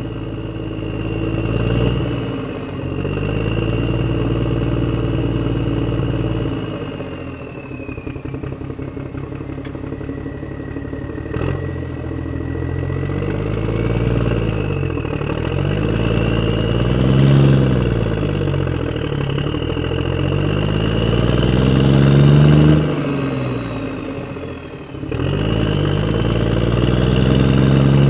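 RC off-road car running, its motor revving up and down again and again with a steady high whine above it.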